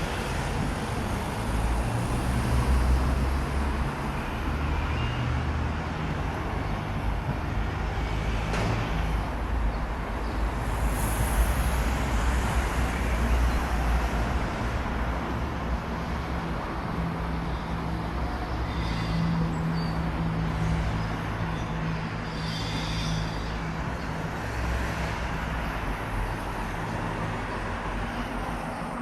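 Steady motor-traffic noise with a low engine hum throughout, and a brief high hiss about eleven seconds in.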